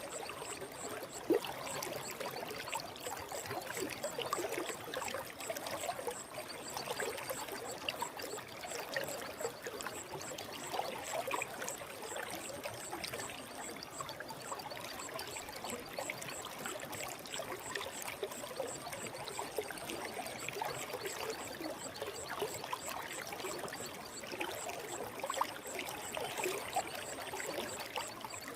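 Forest stream water flowing steadily, with many small splashes.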